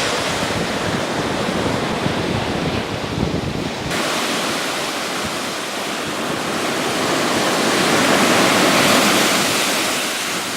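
Ocean surf: a steady rush of breaking waves, with a wave swelling up and washing in about two-thirds of the way through. The sound changes abruptly about four seconds in, as at a cut to another shot.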